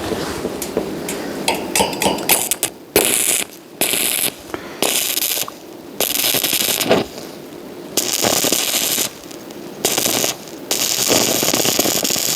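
Electric arc welding crackling in about seven separate bursts, each from half a second to about two seconds long, every one starting and stopping sharply with short pauses between.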